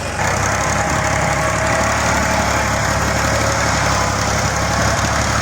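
Tractor diesel engine running steadily and loud.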